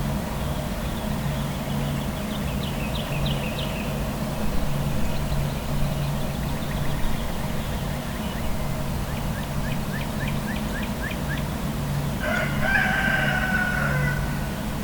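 A rooster crows once, a call of about a second and a half, near the end. Before it, small birds give quick trills of rapid high notes, twice. A steady low traffic rumble runs beneath.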